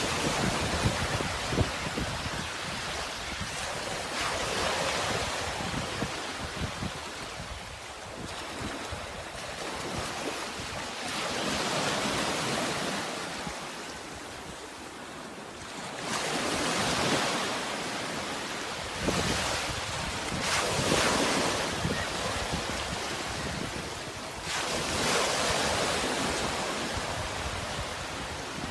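Sea waves washing in, a steady rush that swells and fades again every few seconds.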